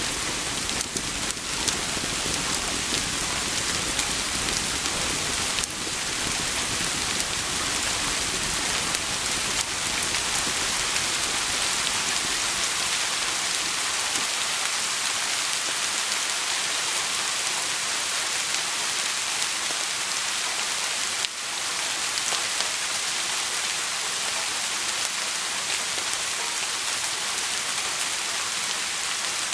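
Steady heavy rain, a dense even hiss of drops on surfaces. A low rumble underneath fades away about halfway through.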